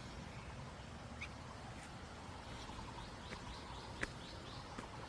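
Birds chirping faintly, with scattered short chirps and a couple of sharp single calls near the end, over a steady low outdoor background noise.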